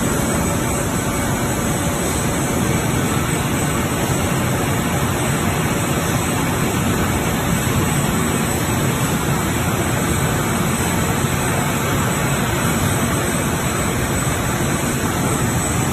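Textile washing machine for removing oil from knit fabric, running with a steady, even noise and a faint high whine.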